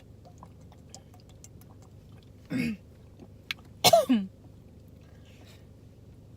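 A woman coughing twice, a short cough about two and a half seconds in and a louder one about four seconds in, with faint clicks between.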